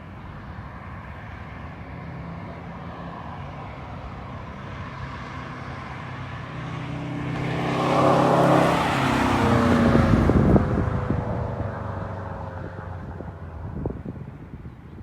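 A performance car making a fly-by under throttle. The engine note rises and grows louder as it approaches, peaks about two-thirds of the way in, then drops in pitch and fades as the car moves away, with a sharp crack or two as it goes.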